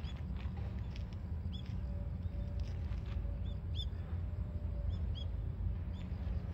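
Steady low wind rumble on the microphone, with short high bird chirps about once a second.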